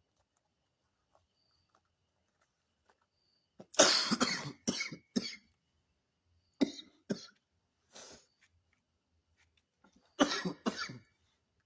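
A man coughing in fits: a run of harsh coughs about four seconds in, a few single coughs in the middle, and another run near the end. The cough comes from flu and fever he is suffering.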